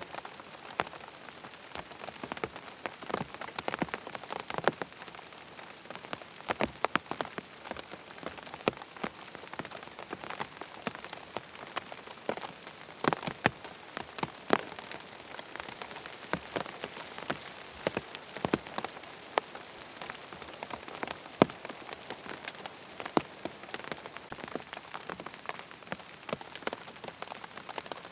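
Steady rain hissing, with frequent sharp, irregular ticks of close drops.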